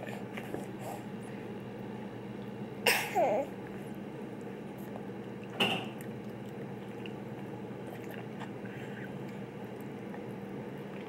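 A baby makes two short, sharp vocal sounds, the first about three seconds in with a brief squeal after it, the second a little before the middle, over a steady low hum.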